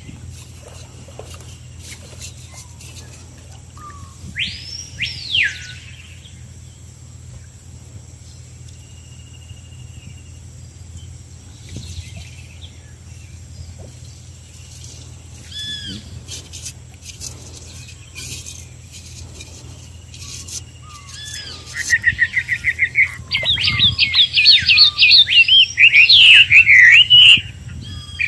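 Wild birds calling. Two loud, arching whistled notes come about five seconds in, with scattered short calls after them. Near the end a rapid run of notes builds into a loud, fast warbling song that stops abruptly, all over a steady low hum.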